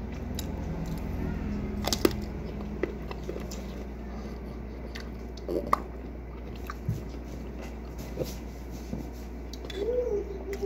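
Close-up chewing and biting of a piece of raw cactus stem, which is tough and chewy, with a few sharp crunchy clicks. A short hummed vocal sound comes near the end.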